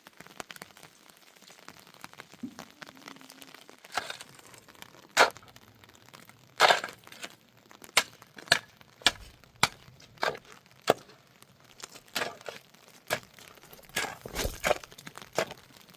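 An irregular series of sharp cracks and knocks, roughly one a second, a few of them heavier and drawn out.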